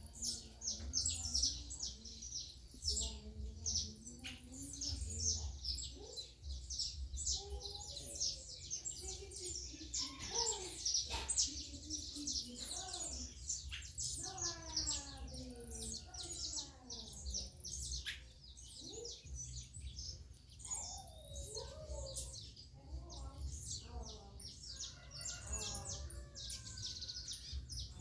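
Many small birds chirping and twittering densely, with lower calls falling in pitch heard several times from about halfway through, over a steady low rumble.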